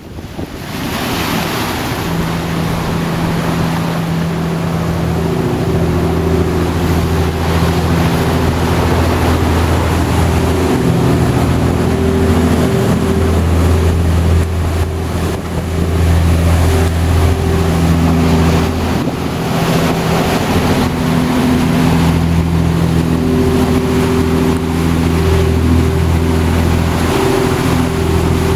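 Engine of a 36-foot Mariner Searanger motor cruiser running at cruising speed, a steady low hum that swells and fades, under the rush of wind and water in 20-plus-knot winds.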